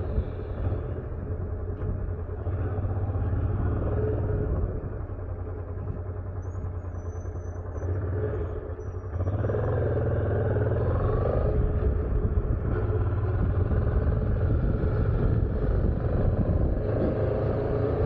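Honda motorcycle engine running steadily under way, with wind and road noise, getting louder about halfway through.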